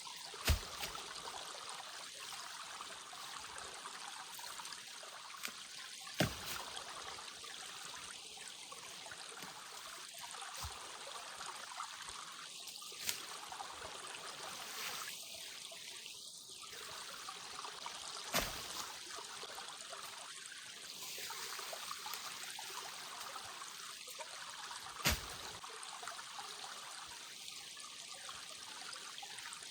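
Small forest stream trickling steadily, with five sharp clicks spaced a few seconds apart.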